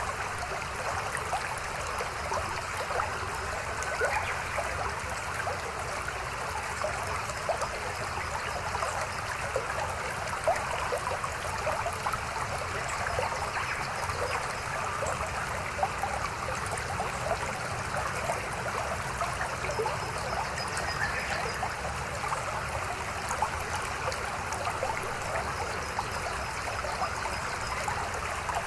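Small mountain stream babbling over rocks: a steady rush of water with many small trickles and splashes.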